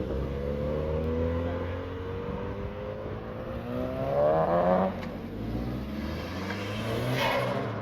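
A car's engine accelerating away, its revs climbing steadily for about five seconds, then dropping sharply at a gear change before climbing again near the end.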